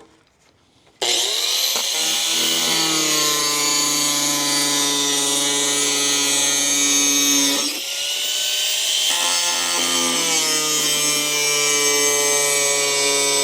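Electric power tool cutting through a plastic 5-gallon bucket to remove its base. The motor starts about a second in and rises in pitch to a steady whine, drops out briefly about two-thirds of the way through, then spins up again and keeps cutting.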